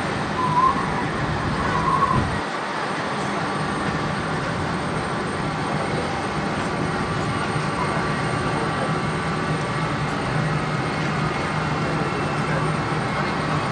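Jet airliner engines running steadily at taxi power: a constant rumble with a thin whine above it.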